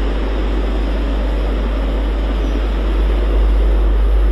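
Class 220 Voyager diesel multiple unit pulling out of the station, its underfloor diesel engines and the train's running giving a steady rushing rumble that grows louder about three seconds in.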